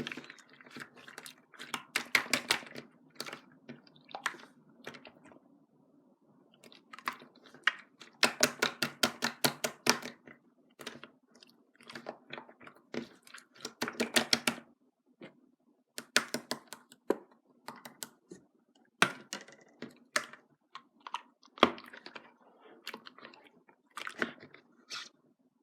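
Crunchy chewing close to the microphone: clusters of quick crunches, each cluster a second or two long, with short pauses between them.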